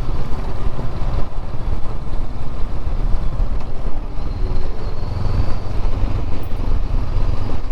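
Motorcycle engine running steadily while riding, with heavy low wind rumble on the mount-mounted action camera's microphone; a steadier engine hum comes up about halfway through.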